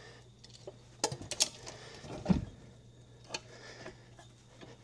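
Metal clinks and knocks from hand work on a car's front suspension as the compressed spring and ball joint are worked into place, with one heavier thump a little past two seconds in.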